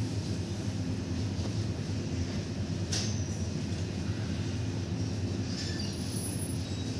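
A steady low rumble, with a sharp click about three seconds in and a few faint, brief high squeals near the end.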